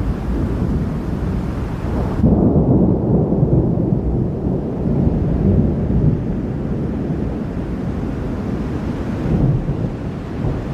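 Thunderstorm: thunder rumbling over a steady rushing hiss of rain. About two seconds in, the hiss cuts off abruptly and a louder low rumble of thunder takes over; the hiss comes back near the end.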